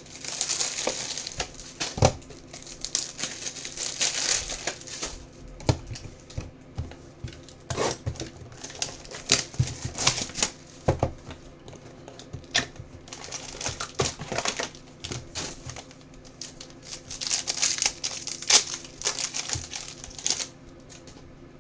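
Plastic wrapping on sealed trading-card boxes and packs crinkling and tearing as they are opened by hand. Stretches of rustling come in waves, with sharp clicks and taps of handling.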